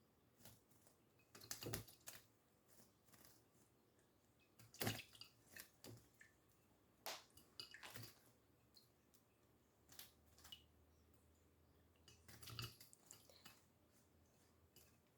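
Faint, scattered clicks and taps, irregular, with a few stronger ones.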